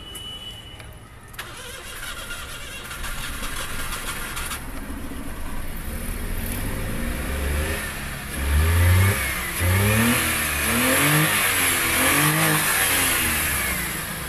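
A short steady beep, then a Maruti Suzuki Wagon R's petrol engine, converted to run on CNG, starts about a second and a half in and idles. From about halfway on it is revved up and down several times. It runs without misfiring or hunting, a sign that the CNG kit's wiring faults are cured.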